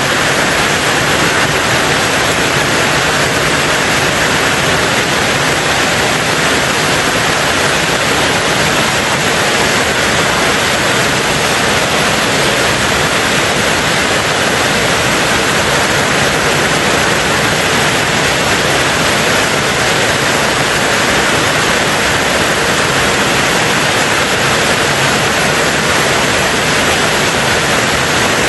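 Rain falling steadily on a tin roof: an even, unbroken hiss with no single drops standing out.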